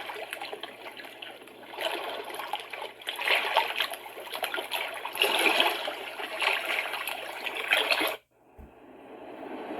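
Recorded ocean-wave track played through a small portable white noise machine's speaker, a wash of noise rising and falling in repeated swells. About eight seconds in it cuts off suddenly, a soft click follows, and the next sound on the machine fades in and grows louder.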